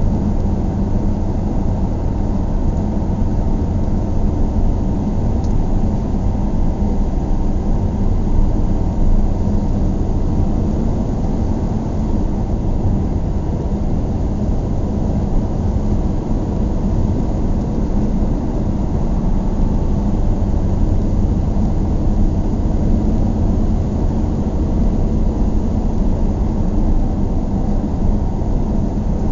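Steady low rumble of a moving vehicle, unchanging throughout, with its energy in the low end.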